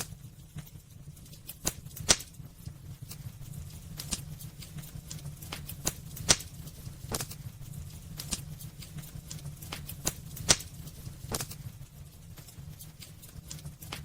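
Wood fire burning in a fireplace: irregular sharp crackles and pops, the loudest about two seconds in and again about ten seconds in, over a steady low rumble of the flames.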